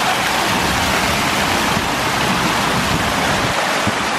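Steady splashing of water in an outdoor fountain.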